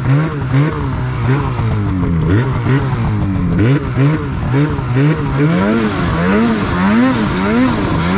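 Turbocharged two-stroke snowmobile engine (a tuned Polaris Patriot Boost) with an aftermarket BoonDocker Sidekick muffler, revved up and down over and over, a bit more than once a second. The throttle is being worked to see whether the engine will bog.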